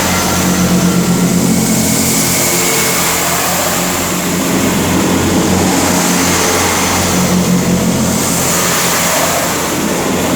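Two coupled Class 158 diesel multiple units running their underfloor diesel engines hard as the train pulls away from the platform, a loud, steady low drone.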